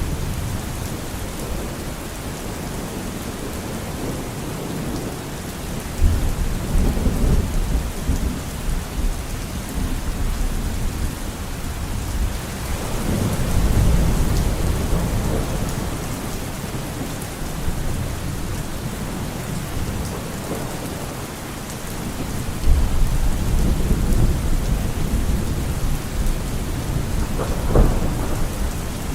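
Thunderstorm: steady rain falling, with thunder rumbling low three times and a sharper clap near the end.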